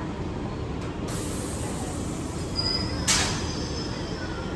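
Indian Railways train rumbling on the track. A high hiss starts about a second in, and a short, loud hiss comes about three seconds in.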